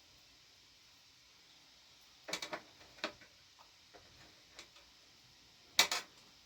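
Scattered sharp clicks and knocks of objects being handled: a short cluster about two seconds in, a few lighter ticks, then the loudest pair of knocks near the end.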